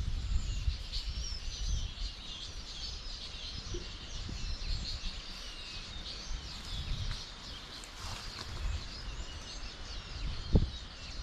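Birds chirping and calling, many short overlapping chirps, over a low rumble. A single knock near the end.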